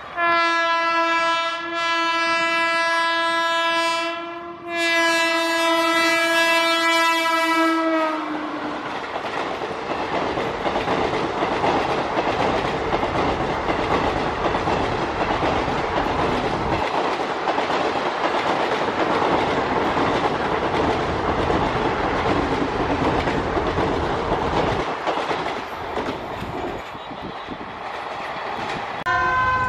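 A locomotive sounds its horn in two long blasts, the second falling slightly in pitch as the locomotive passes. The express train's coaches then rush by at speed with a steady clatter of wheels over the rail joints. Another horn blast starts just before the end.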